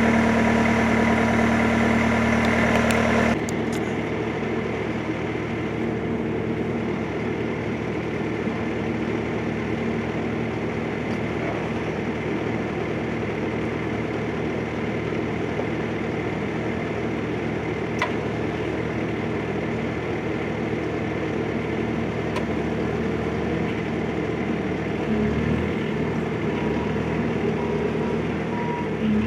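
Bobcat S530 skid-steer loader's diesel engine idling steadily while it warms up on a cold day. The sound drops a little in level about three seconds in, then holds even.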